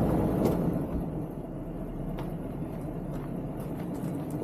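4x4 engine running at low revs as the vehicle crawls slowly over a rocky ledge, with a few faint clicks.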